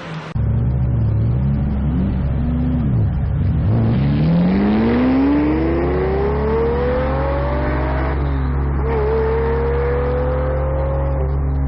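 Lamborghini Diablo V12 engine revving in short blips, then accelerating with its pitch climbing steadily for about four seconds, dropping at a gear change and climbing again before easing off near the end.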